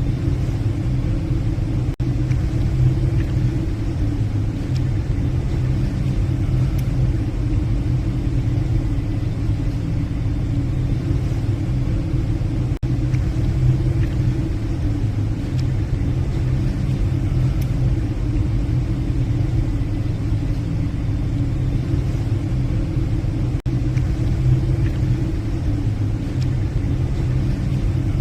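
A passenger ship's engines give a steady, low droning rumble. The sound dips out very briefly three times.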